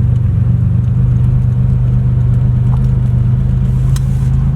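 A 1986 Porsche 911 Carrera's air-cooled flat-six running at a steady speed, a loud, even low hum with no revving.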